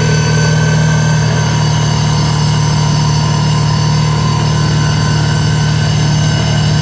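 Kawasaki Teryx side-by-side's engine running steadily under way, a constant drone with no change in speed.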